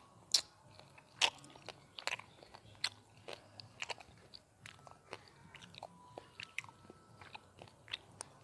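Close-miked mouth chewing a mouthful of spicy noodles with lips closed: a run of sharp, wet mouth clicks and smacks. The two loudest come within the first second and a half, then quieter ones follow about twice a second.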